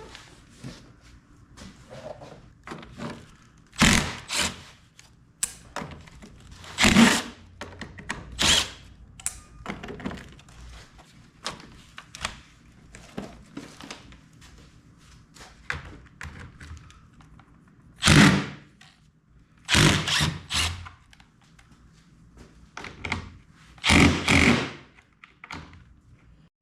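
Irregular knocks, clunks and clatters of hand tools working on a vintage camper door on a workbench, with a handful of loud sharp strikes spread through, some in quick pairs.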